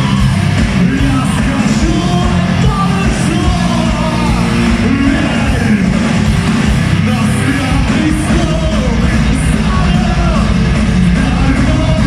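Live metal band playing loudly, with a singer's voice over the band.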